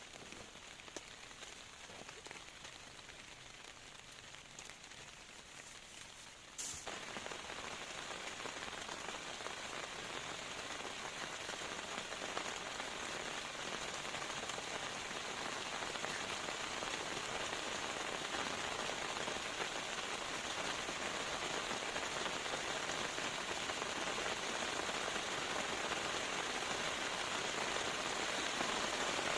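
Steady rain-like hiss. It cuts in abruptly about seven seconds in over a fainter hiss, then slowly grows louder.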